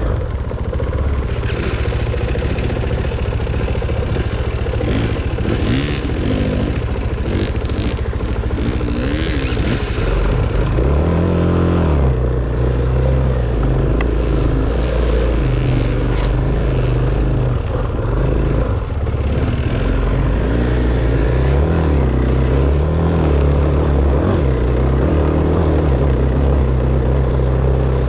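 Enduro dirt bike engine running continuously as it is ridden, the revs rising and falling with the throttle.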